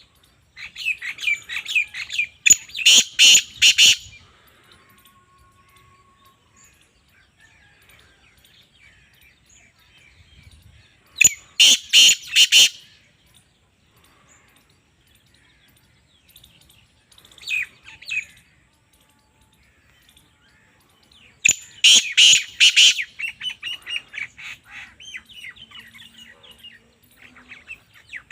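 Black francolin calling: three loud bouts of rapid, harsh, rhythmic notes, about ten seconds apart, with a shorter, weaker bout between the second and third. Faint chirps carry on between the bouts.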